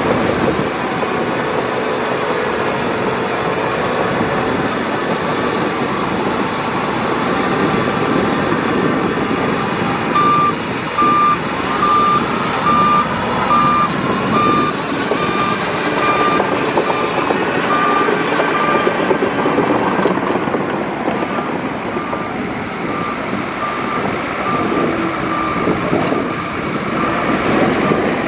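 Heavy earthmoving machinery running steadily. From about ten seconds in, a reversing alarm beeps roughly once a second, a sign that the dump truck or bulldozer is backing up.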